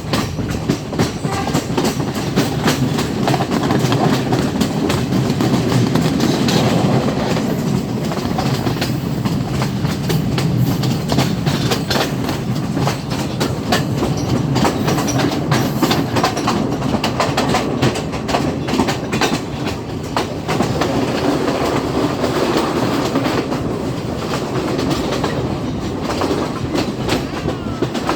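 Sri Lankan Class S14 diesel multiple unit express train running along the track: a steady rumble with the wheels clicking over rail joints throughout.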